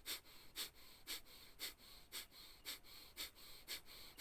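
Kapalbhati pranayama breathing: short, forceful exhalations through the nose, the stomach pumping inward on each, in an even rhythm of about two puffs a second.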